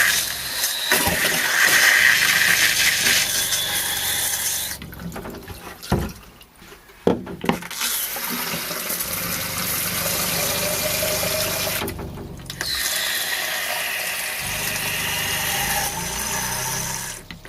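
Water running hard from an RV faucet into a cup in three spells, stopping about five seconds in and briefly again near twelve seconds, over a steady low hum. A couple of sharp knocks come during the first pause.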